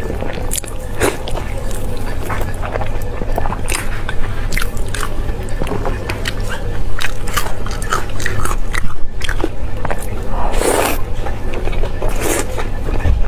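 Close-miked eating: repeated biting and chewing of crisp food, with many irregular sharp crunches.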